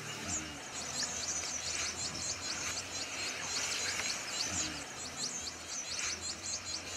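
A chorus of small birds chirping, high-pitched quick chirps repeating rapidly and without a break.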